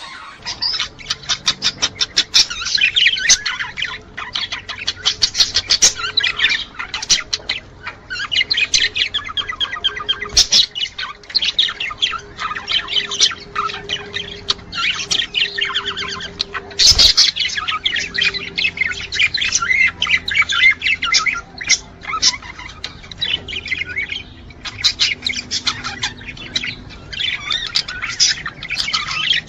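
Budgerigars chattering and warbling in a dense, continuous run of rapid chirps, clicks and squawks, the courtship chatter of male budgies. A sharp knock comes about seventeen seconds in.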